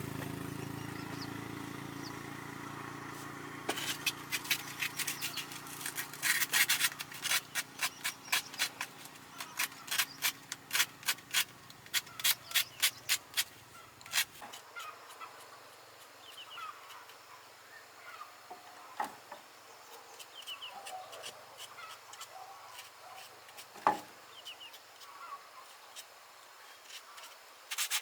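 Repeated scraping strokes by hand, about two to three a second, over a steady low hum that cuts off about halfway through. After that, birds chirp in short calls, with two sharp knocks.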